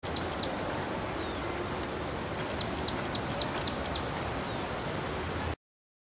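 A small bird calling over a steady outdoor background rumble: a couple of short high notes about half a second in, then a quick run of about six in the middle.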